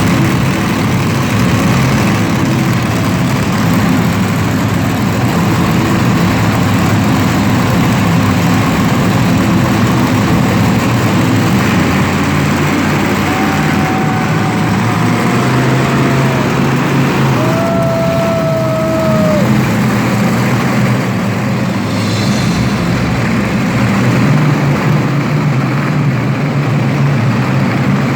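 Monster truck engines running together after start-up: a loud, steady engine din.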